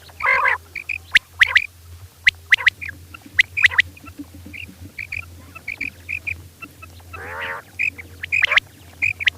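Female common quail calling: many short, sharp high chirps in irregular runs, with a couple of longer, harsher calls, one near the start and one about seven seconds in. A low steady hum runs underneath.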